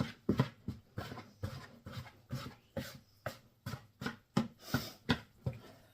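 Wet, sticky bread dough being stirred and worked in a mixing bowl, making short knocks and slaps at about three a second that stop shortly before the end.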